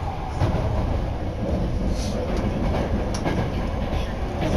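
Keisei Main Line electric commuter train running at speed, heard from inside the carriage: a steady low rumble of wheels on rail, with a few sharp clicks as the wheels pass over rail joints.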